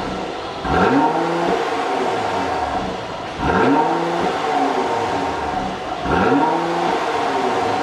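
Mercedes-AMG GLC 43 Coupe's twin-turbo V6 revved three times, through an exhaust whose stock mid and end mufflers have had their valve circuit changed. Each rev rises quickly in pitch and drops back to a steady idle, about every two and a half seconds.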